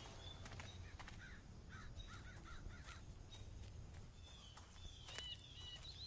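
Faint outdoor ambience of wild birds calling: short high falling whistled notes at the start and again near the end, and a quick run of lower repeated calls between about one and three seconds in, with a few faint clicks.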